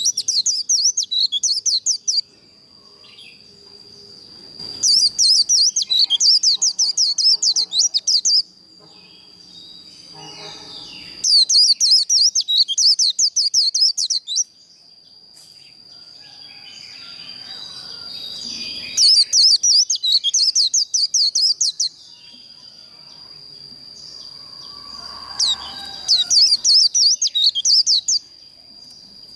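White-eye (vành khuyên) singing its rapid, twittering 'líu' song in about five bursts of three seconds or so, with short pauses between them. A steady thin high tone runs underneath.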